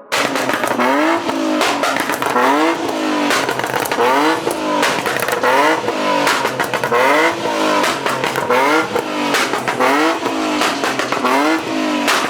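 Tuned car engines revved hard again and again, the pitch climbing and dropping about once a second, with sharp exhaust pops and bangs in between.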